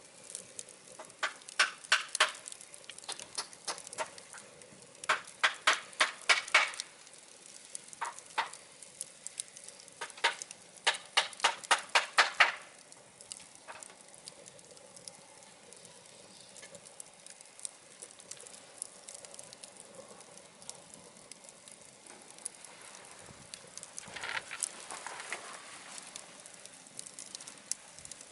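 Wood fire crackling in a wood stove as scrap lumber burns: quick runs of sharp snaps and pops in bunches through the first half, then a quieter steady hiss with a few softer crackles near the end.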